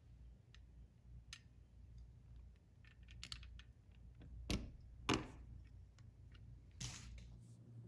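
A few small, scattered clicks and taps of a chrome bezel and red plastic beacon lens being fitted and turned by hand on a toy car's painted roof piece, the loudest about five seconds in, over a faint low hum.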